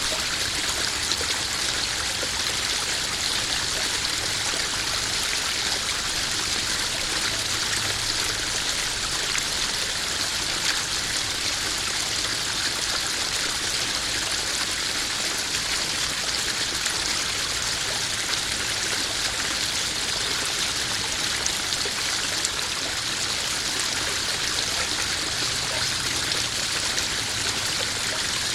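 Small garden waterfall pouring steadily into a koi pond: an even, continuous splashing and trickling of running water.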